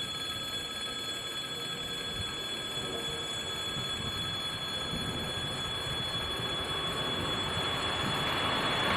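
A 2TE116 diesel locomotive hauling a freight train approaches, its running noise growing steadily louder toward the end.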